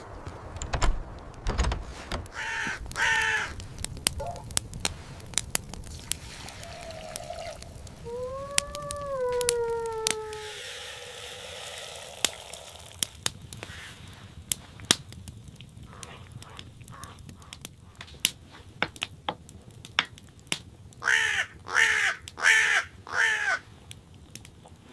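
Crow cawing: a couple of harsh caws early on, a drawn-out call that falls in pitch, then four caws in quick succession near the end, with many sharp clicks and taps between the calls.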